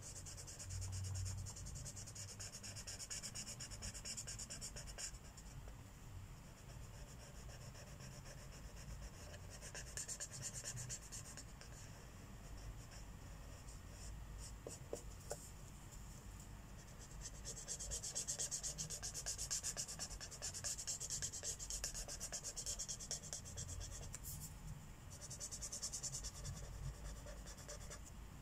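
Felt-tip marker nib scratching across paper in quick back-and-forth colouring strokes, in stretches that stop and start, louder toward the end.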